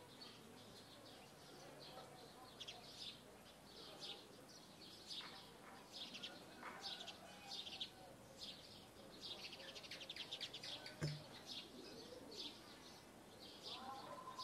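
Faint birds chirping, short high calls repeated again and again, with a quick trill about ten seconds in. A single sharp knock about eleven seconds in.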